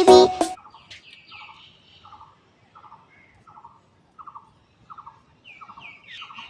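A bird calling over and over in short, evenly spaced calls, about one every 0.7 seconds, after music cuts off about half a second in.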